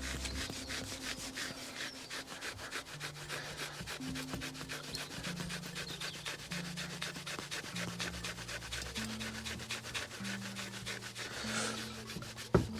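Microfibre strip with Autosol polish rubbing over a steel LS crankshaft journal to clear surface rust, in quick, even, rhythmic strokes. A single sharp knock comes near the end.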